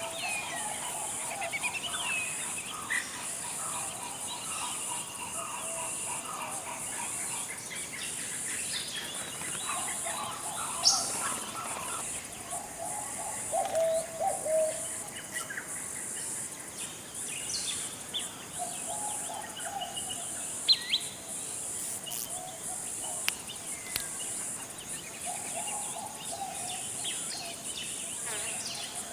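Forest ambience: a steady high-pitched insect drone under scattered bird calls, short chirps and low warbling phrases, with a few sharp high notes.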